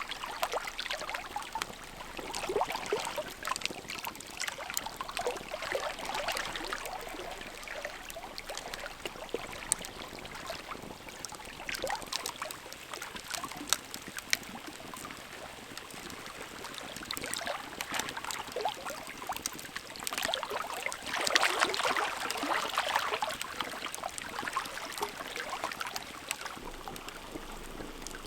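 Campfire burning, with sharp wood crackles and pops scattered over a steady rushing hiss that swells louder a few times.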